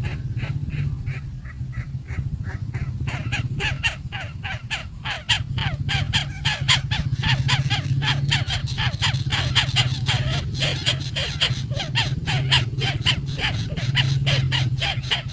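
Chicks calling over and over in quick succession, about four short calls a second, getting louder and busier a few seconds in, with a steady low hum underneath.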